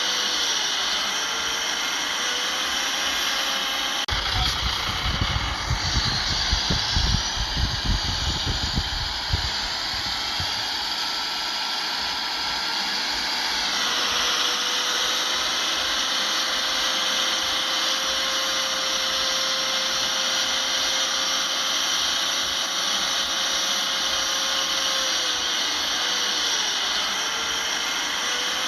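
Heavy earthmoving machinery's diesel engine running steadily under work, with a spell of low, irregular rumbling and thumping from about four to ten seconds in. The engine pitch dips briefly near the end.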